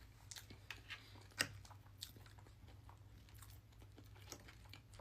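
A person chewing a mouthful of food: faint, irregular wet mouth clicks and smacks, the sharpest about one and a half seconds in.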